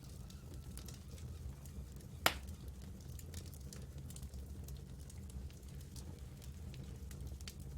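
Campfire burning with a low steady rumble and scattered sharp crackles, and one louder pop a little over two seconds in.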